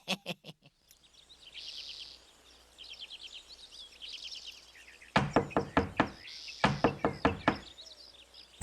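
Birds chirping in short high trills, then two quick runs of sharp knocks, each a rapid string of five or six, a little over a second apart.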